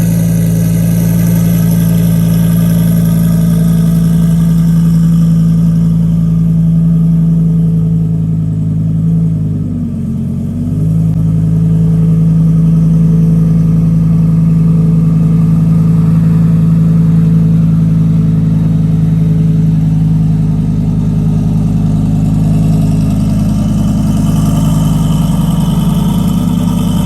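Honda Del Sol's engine running through a new full 4-inch exhaust, holding a steady drone at one pitch. About ten seconds in, the pitch dips briefly and then comes back.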